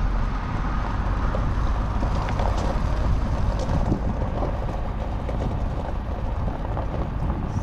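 Vehicle driving slowly, a steady low engine and road rumble heard from inside the cabin.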